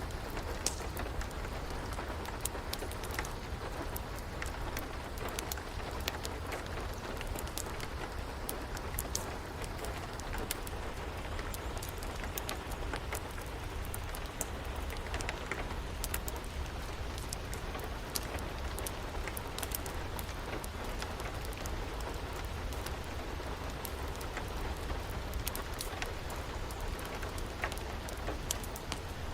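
Steady rain with a crackling wood fire: an even hiss of rainfall with frequent sharp pops and crackles scattered through it.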